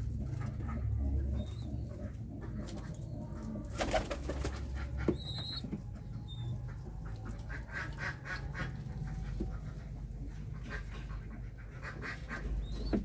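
Short, high bird chirps every second or few over a steady low rumble, with a brief rustle or knock about four seconds in.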